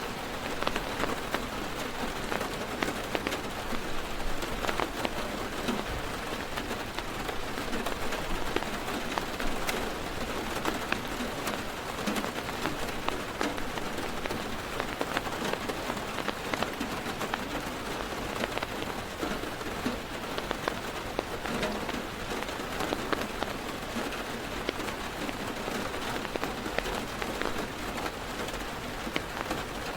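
Heavy rain drumming on a car's roof and windows, heard from inside the car: a steady dense patter with many individual drop hits.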